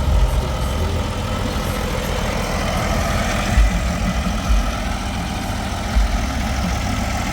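Diesel semi truck engine idling steadily, with a few short low bumps.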